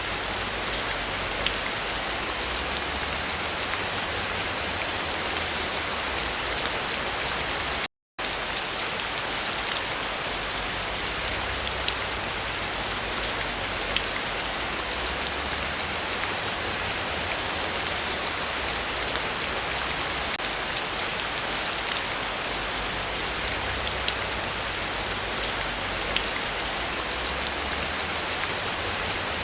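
Heavy rain falling steadily, a dense patter of drops. It cuts out to silence for a moment about eight seconds in.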